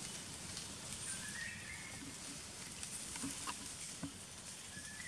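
Quiet woodland ambience with a bird giving a short warbling call twice, about a second in and again near the end, and a few light clicks in between.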